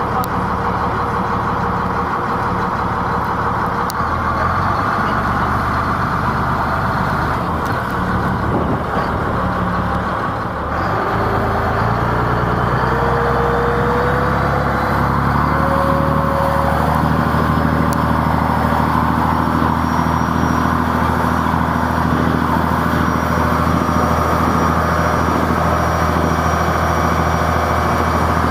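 Taxi boat's engine running steadily. About eleven seconds in it gets louder and its pitch rises as the revs go up, then holds at the higher speed.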